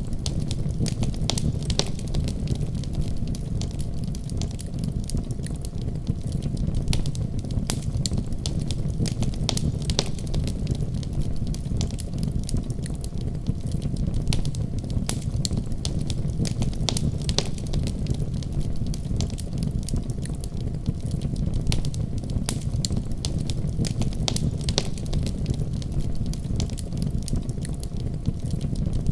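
Wood fire crackling in a fireplace: frequent sharp pops and snaps over a steady low rumble of burning.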